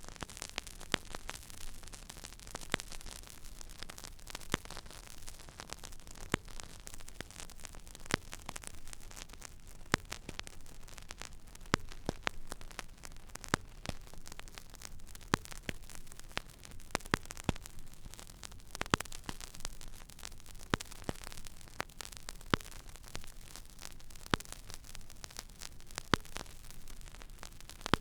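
Stylus tracking an empty vinyl record groove: steady surface hiss with scattered small crackles, and a louder click repeating about every two seconds.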